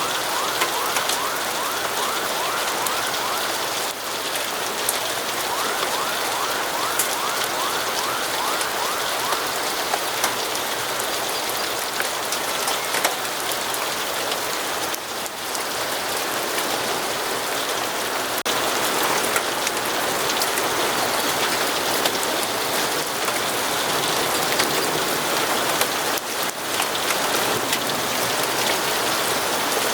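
Steady rainfall, a constant even hiss, with scattered small clicks and ticks running through it.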